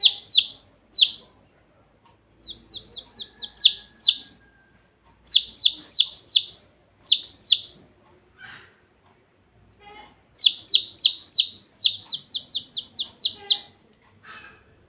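Baby chicks peeping: short, loud, high-pitched cheeps in quick runs of several, with pauses of a second or more between the runs.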